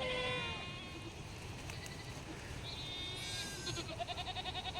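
Several bleats from a flock of livestock. A falling bleat comes at the start, a higher call about three seconds in, then a rapid, quavering bleat near the end.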